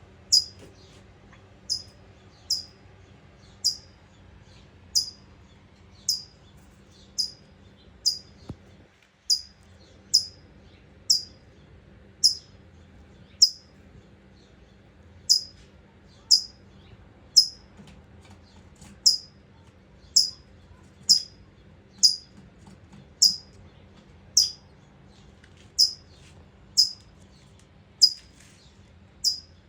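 California towhee giving sharp, high single chip notes about once a second, each note falling quickly in pitch. These are the worried alarm calls of the mother bird with someone at her nest of hatchlings.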